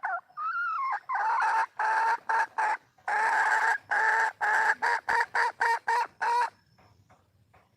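Wild junglefowl hen calling for a mate: a bending opening note, then a quick run of short clucking notes that ends about six and a half seconds in.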